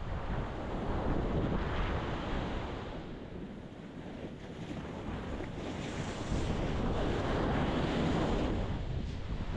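Ocean waves breaking on a rocky shore, a steady wash of surf that swells twice as waves come in, with wind noise on the microphone.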